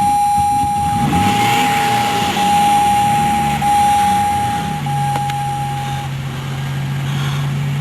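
2004 Jeep Grand Cherokee Laredo being cranked on a cold start for about five seconds, then catching and settling into a steady idle. It is a hard start on a tank nearly out of gas. A dashboard warning chime sounds in long repeated tones during the cranking and stops a second after the engine catches.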